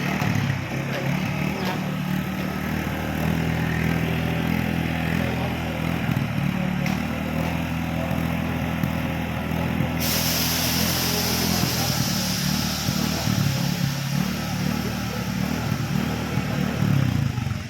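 Motorcycle engine idling steadily, run for a smoke-belching emission test. A steady high hiss starts suddenly about ten seconds in, and the engine cuts off at the very end.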